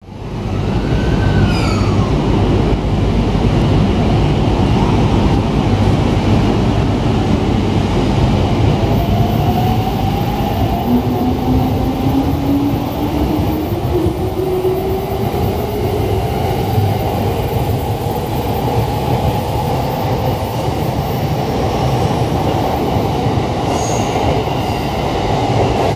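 JR East electric commuter train running along a platform, with steady wheel-on-rail rumble and a motor whine that rises slowly in pitch as it picks up speed.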